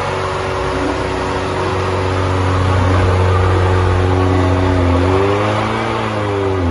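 Car engine running steadily, its pitch rising a little and falling back about five seconds in, as if lightly revved.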